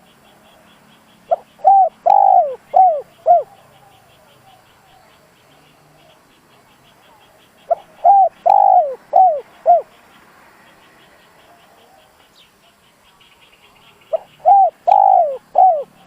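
Spotted dove cooing: three song phrases about six seconds apart, each a run of about five coo notes with a longer note in the middle.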